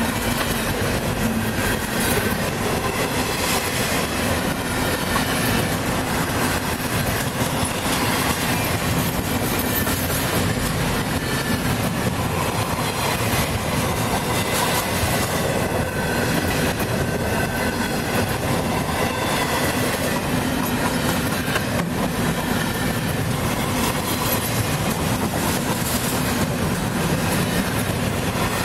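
Freight train of empty intermodal well cars rolling past at close range: a steady rolling noise of steel wheels on rail, with irregular clicks and knocks as the wheels pass over the track.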